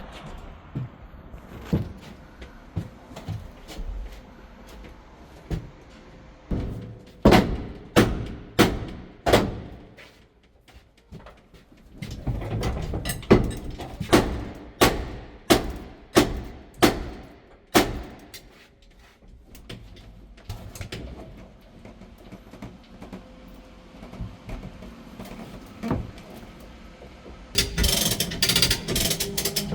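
Repeated sharp knocks, about two a second, come in runs: five blows about a quarter of the way in and a longer run of around nine in the middle, like hammer blows during repair work. Near the end a fast, dense rattling starts.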